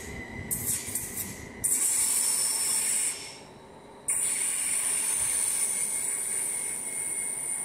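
Low rumble of a train, then from about two seconds in a loud, steady, high-pitched hiss that cuts out abruptly for about a second and comes back.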